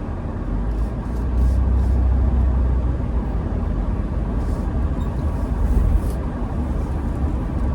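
Car driving slowly, a steady low road and engine rumble heard from inside the cabin.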